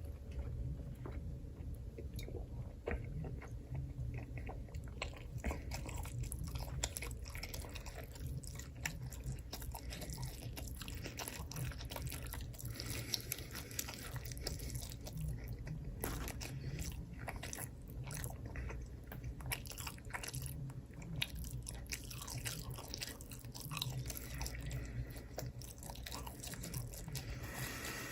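Close-miked chewing and crunching: many small, crisp, irregular crackles over a low steady rumble.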